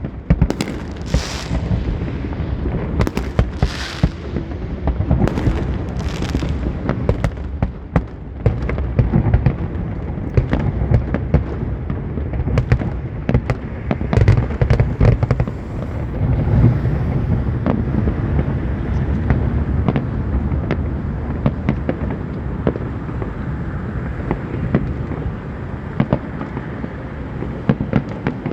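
Fireworks display: a continuous rumble of booming bursts peppered with sharp crackling reports, with several hissing fizzes in the first few seconds.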